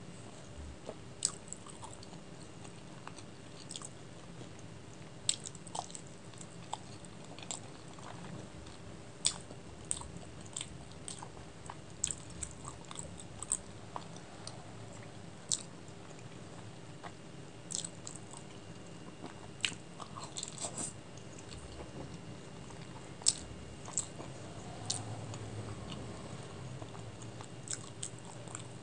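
Close-miked chewing and biting of a steamed chicken momo dipped in chilli chutney: irregular mouth clicks and smacks, a few every couple of seconds, over a steady low room hum.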